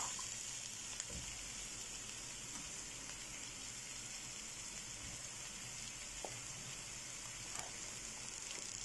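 Onions, garlic and spices frying in oil in a pot, a steady soft sizzle, with a few faint taps as raw chicken pieces are laid in.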